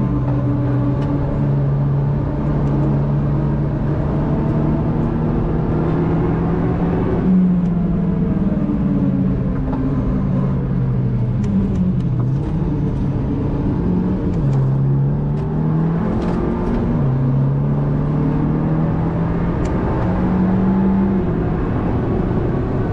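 Four-cylinder engine of a MINI John Cooper Works GP (third generation) under way, its note climbing and falling repeatedly, with sudden drops in pitch at gear changes.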